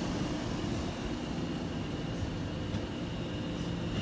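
A train running steadily: a continuous rumble and hiss with a faint high hum, and faint ticks about every second and a half.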